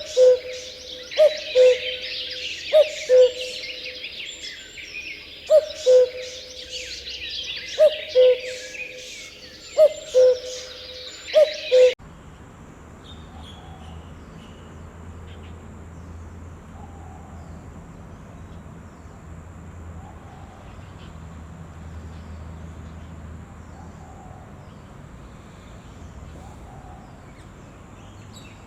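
A bird repeats a two-note hooting call, the second note lower, every second or two over a dense chorus of small birds chirping. About twelve seconds in, this cuts off abruptly to a quieter background with a low hum and a few faint chirps.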